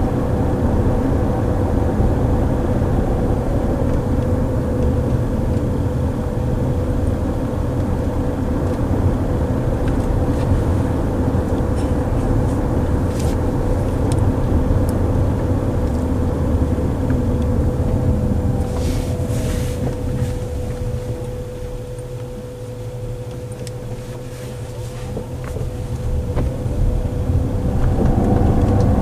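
Car driving, heard from inside the cabin: steady road and tyre rumble with a thin steady hum. It quietens for a few seconds about three-quarters of the way through, as the car slows, then builds again near the end.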